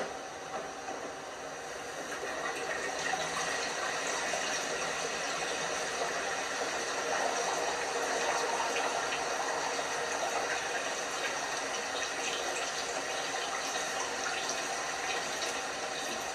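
LG washing machine's water running into the drum, a steady rush of water that grows louder about two to three seconds in and then holds.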